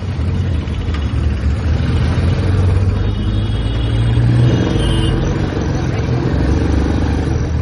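Royal Enfield Classic 350's single-cylinder engine and exhaust pulling hard under acceleration. The pitch climbs, drops briefly about five seconds in, then builds again.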